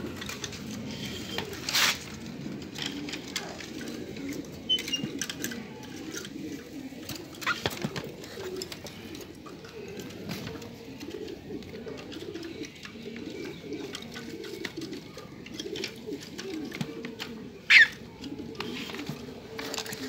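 Birds calling in low, repeated phrases throughout, with a few short sharp sounds, the loudest near the end.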